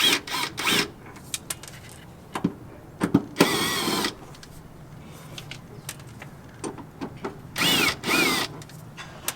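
Tools clicking and knocking against metal under a car while the transmission mount bolts are worked loose, with a few short squeaking bursts.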